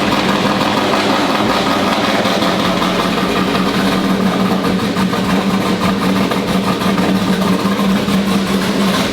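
Pickup truck's 6.2-litre LS V8 idling steadily just after starting on the first try, after sitting stored a long time.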